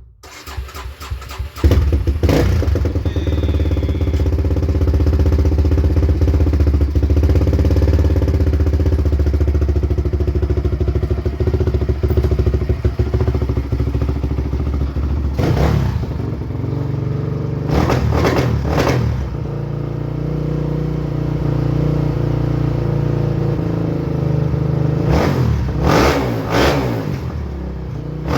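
A small vehicle engine cranks and catches in the first couple of seconds, then runs steadily, with a few brief louder bursts about halfway through and near the end.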